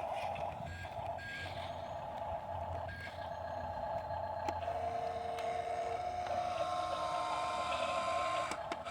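Dump truck running, with a steady mid-pitched whine and fainter tones that shift slightly in pitch from about five to eight seconds in.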